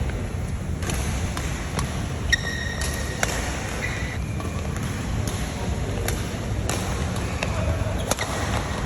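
Badminton play: a series of sharp racket hits on the shuttlecock at irregular intervals, with a couple of brief high squeaks of shoes on the court floor a few seconds in, over a steady low rumble.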